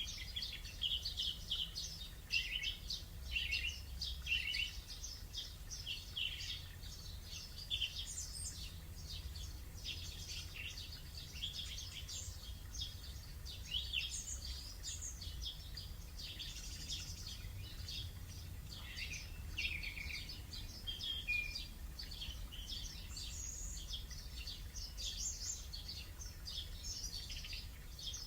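Recorded morning birdsong played back through an Alexa smart speaker: many birds chirping and calling over one another, with a low steady hum underneath.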